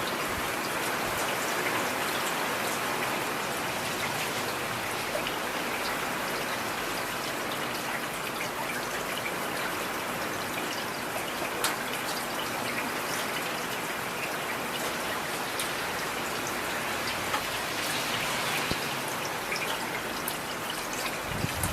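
Heavy rain falling steadily, an even hiss with scattered sharper drop taps.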